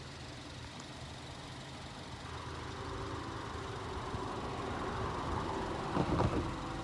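Distant locomotive air horn, a Nathan AirChime K5HL five-chime, sounding for a grade crossing a few kilometres off. It is faint and steady and swells louder from about two seconds in.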